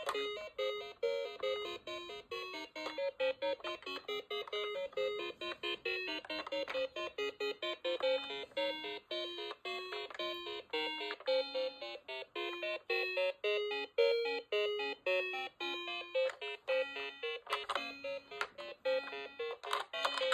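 Toy police car's electronic sound chip playing a simple tune of short beeping notes. A few clicks or rattles come in near the end.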